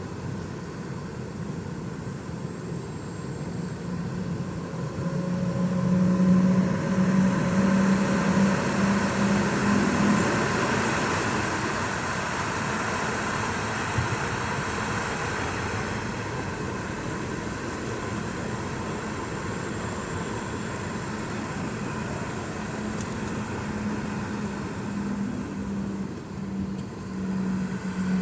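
Boeing 717's Rolls-Royce BR715 jet engines running, heard as a steady rushing noise with a low hum. The sound swells louder for a few seconds about a quarter of the way in, then settles.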